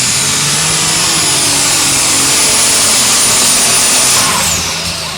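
Turbocharged Light Super Stock pulling tractor engine running flat out with a loud, high turbo whine; about four seconds in the whine glides down and the engine noise falls away as the throttle is let off.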